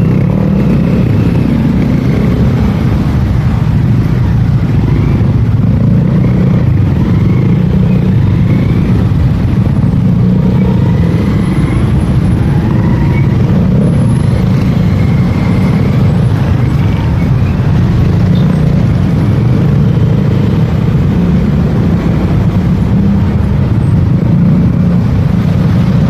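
Motorcycle on the move: a steady, loud rumble of engine and road noise that keeps up without a break, with faint passing traffic.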